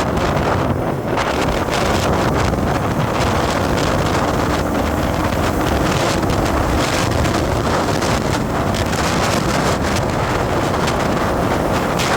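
Wind buffeting the microphone over the running noise of a moving road vehicle, loud and steady.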